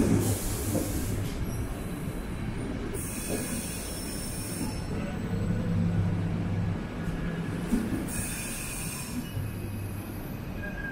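Electric passenger train running through a station, with a steady low electric hum over track rumble and a high hiss that comes and goes three times.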